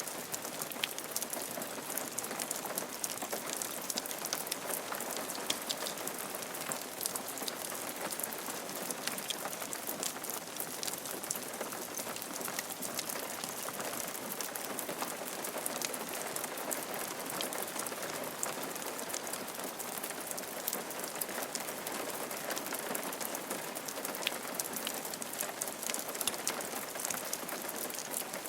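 Steady rain falling on a roof, a dense patter of many individual drops ticking over a constant hiss.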